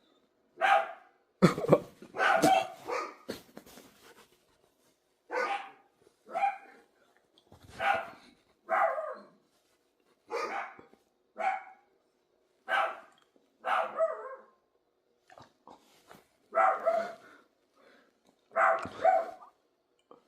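Dog barking: separate loud barks, some single and some in quick pairs, about a second or two apart, with no steady rhythm.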